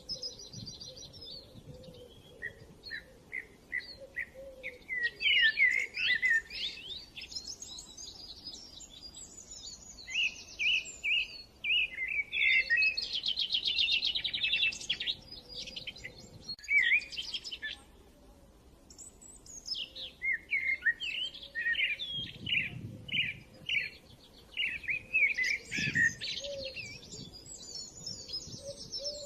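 Small songbirds chirping and twittering in quick bursts of song, with brief lulls between phrases.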